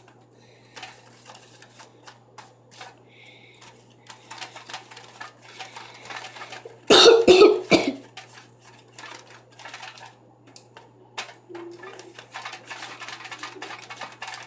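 Small clicks and scrapes of a utensil working soap slime in a plastic container, with one loud cough about halfway through.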